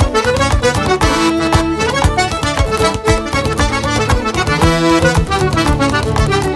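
Traditional Québécois band playing a lively tune, with accordion leading over fiddle and guitar and podorythmie foot-tapping keeping a steady beat.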